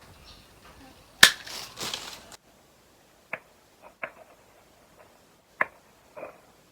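Pruning secateurs cutting lychee stems: a sharp snip with about a second of crunching and leaf rustle, then several lighter snips.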